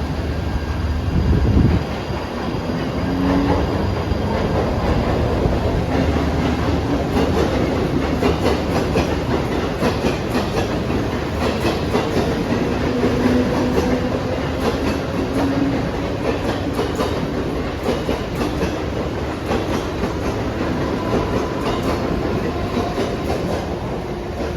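Mumbai suburban local train running through the station, with its wheels clicking over the rail joints and a faint whine that rises slightly.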